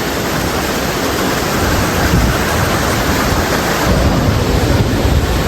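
Waterfall rushing steadily close by, a dense even roar of falling water with a deeper rumble that grows about two seconds in.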